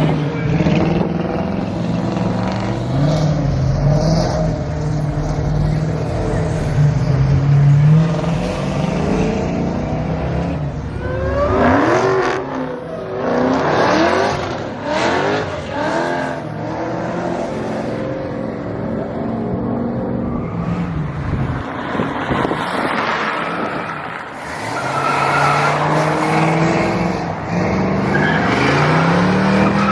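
Car engine running and revving hard several times, its pitch rising in bursts, with tyres squealing.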